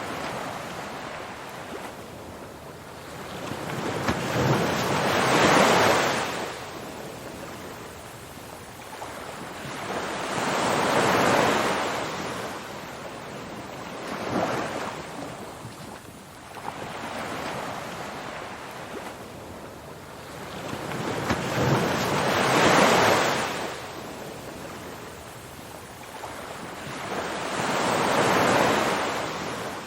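Ocean surf: waves rushing in and drawing back, a wash of noise that swells and fades roughly every five to six seconds, with four big swells and a couple of smaller ones between them.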